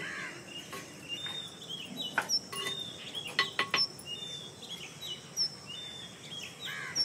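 Small birds chirping and calling in many short, high notes, with a few sharp clicks about two seconds in and again around three and a half seconds.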